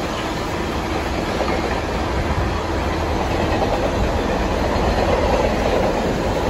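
Freight train of covered car-carrier wagons rolling past on steel wheels: a steady rumble and rolling noise from the rails, growing a little louder in the second half.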